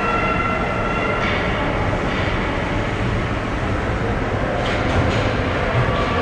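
Ice hockey rink during play: a steady scraping rumble of skates on the ice and arena noise, with a few sharp clacks of sticks or puck.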